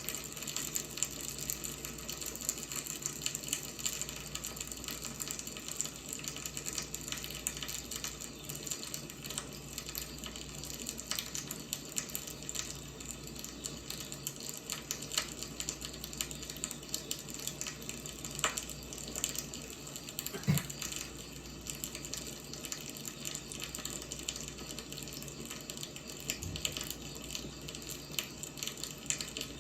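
Firewood burning: a steady hiss with dense, irregular crackling, and one louder pop about twenty seconds in.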